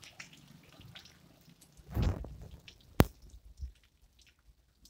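Rain falling lightly, with scattered drips. A muffled thump comes about two seconds in, and a single sharp click a second later.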